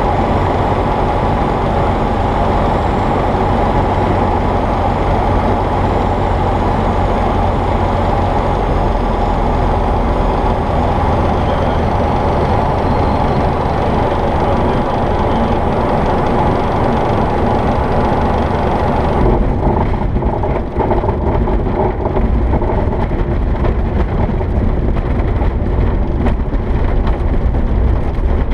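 Jabiru J-170 light aircraft's four-cylinder Jabiru 2200 engine and propeller running steadily. About two-thirds of the way through, the sound changes: the high hiss falls away and a rougher, uneven low rumble takes over.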